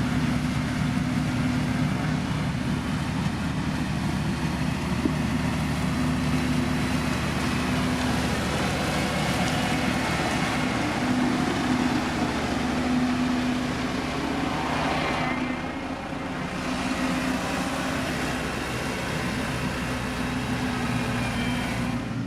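Heavy road-construction machine's diesel engine running steadily, with a constant low engine note over a broad mechanical noise.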